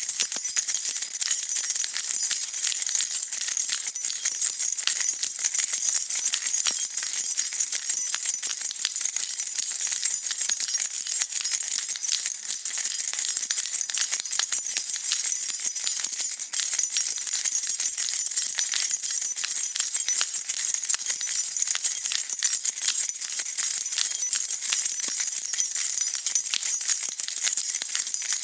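A bunch of metal keys shaken continuously, a dense, steady jingle of many small clinks.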